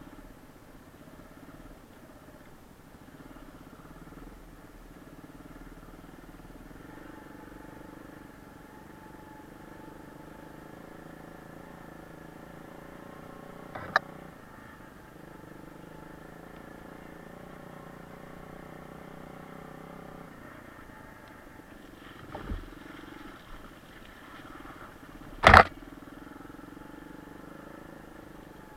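Kayo pit bike's single-cylinder engine running at a fairly steady pace, its note shifting a little along the way. Sharp knocks cut through it about halfway in and twice near the end, the last one the loudest.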